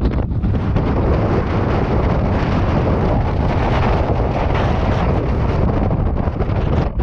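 Strong Antarctic wind blasting over the microphone: a loud, continuous rush with heavy low buffeting.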